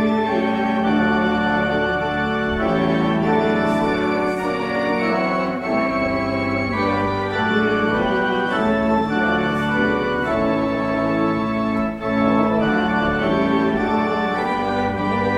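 Organ music: slow, sustained chords over held bass notes.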